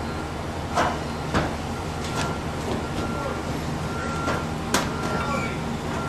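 Roofing work overhead: a few sharp, irregular knocks and bangs over a steady low machine hum.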